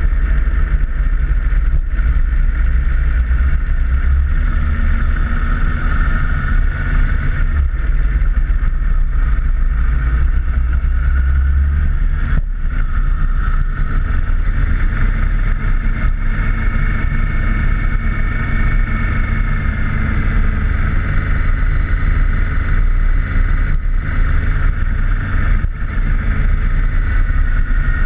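Motorcycle engine running at road speed, with heavy wind rumble on the microphone; the engine note rises a little about sixteen seconds in.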